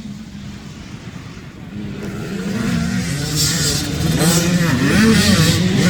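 Dirt bike engine revving, growing louder about two seconds in, its pitch rising and dropping.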